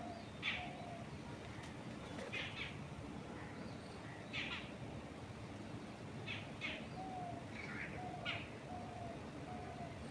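Songbirds chirping in short high bursts, several times, with a lower short note repeated in a series near the start and again in the second half, over a steady hiss of soft wind moving through trees.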